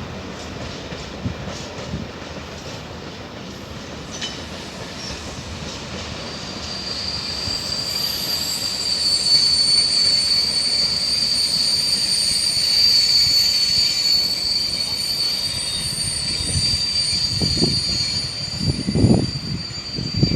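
Covered freight wagons of a Freightliner Class 66 train rolling onto a siding, their wheels squealing on the curve with a steady high screech. The screech starts about a third of the way in and grows louder. A few low thumps come near the end.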